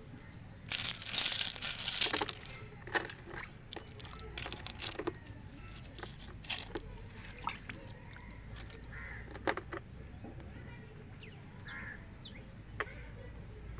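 Loose stones and gravel being handled: a short scraping rustle about a second in, then single sharp clicks of stone on stone every second or two.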